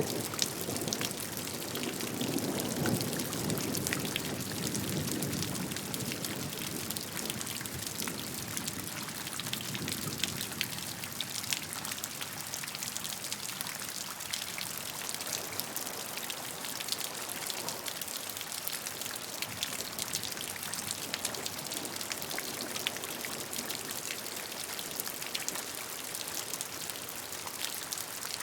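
Steady rainfall, a dense patter of drops, with a deeper rush of water in the first ten seconds or so that fades away.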